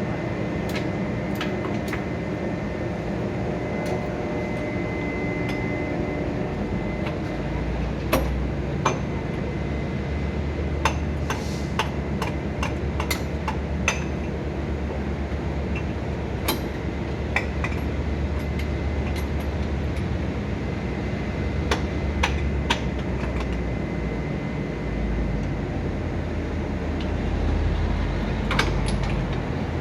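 Steady hum of a standing locomotive's machinery, with scattered sharp metallic clanks and knocks from around the train and a thin steady whine. The low rumble grows stronger about seven seconds in.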